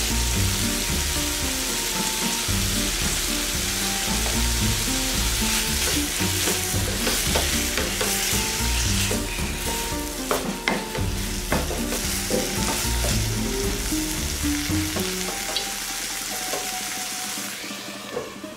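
Squid rings in a thick masala sizzling in a nonstick frying pan while a wooden spatula stirs and scrapes them, with a few sharp knocks of the spatula against the pan about halfway through. The sizzle dies down near the end. Background music plays underneath.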